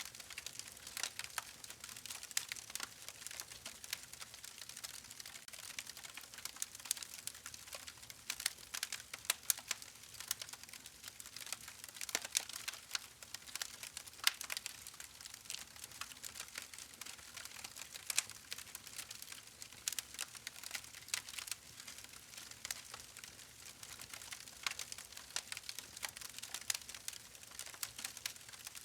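Wood fire crackling: dense, irregular sharp pops and snaps over a steady hiss of burning.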